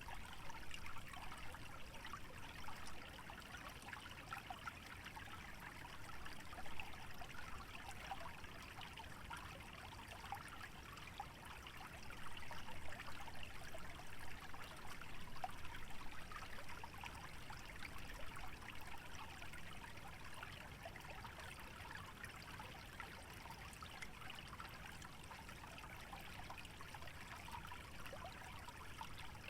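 Small stream trickling and babbling over a shallow bed, a steady water sound with fine splashy detail, slightly fuller for a few seconds around the middle.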